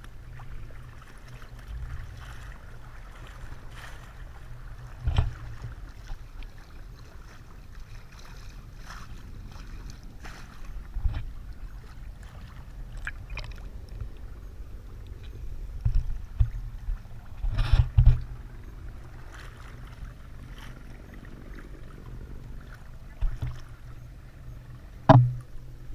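Low rumble of water and wind on the microphone on open water, broken by scattered knocks and bumps; the loudest come about two-thirds of the way in and near the end.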